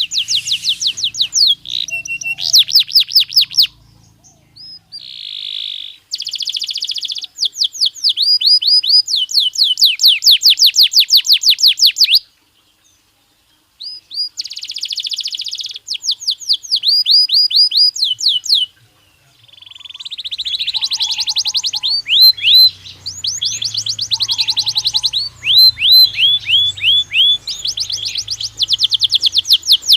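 Belgian canary singing: fast trills of rapidly repeated high chirps, moving from one note type to the next. There is a silent pause of about a second and a half near the middle and a shorter break a little later.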